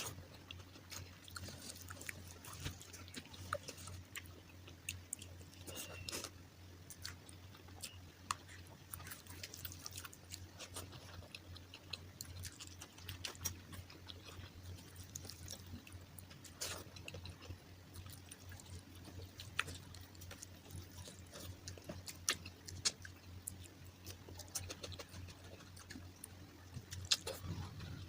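Close-miked chewing and mouth sounds: irregular wet clicks and smacks of a person eating, over a low steady hum.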